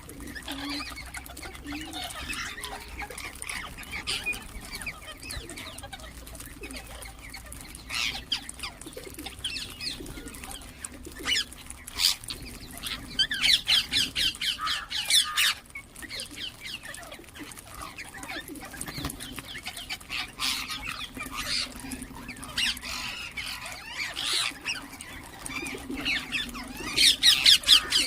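Ringneck parakeets chirping and calling in irregular bursts, with dense runs of rapid chirps about halfway through and again near the end.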